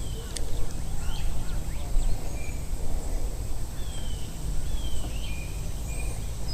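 Outdoor ambience: birds giving scattered short chirps and whistles over a steady low rumble.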